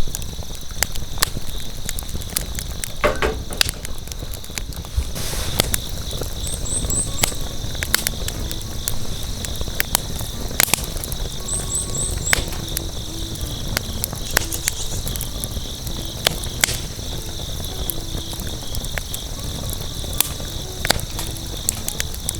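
Insects trilling steadily, with scattered sharp clicks and two brief quick chirp runs, once about a third of the way in and again around the middle.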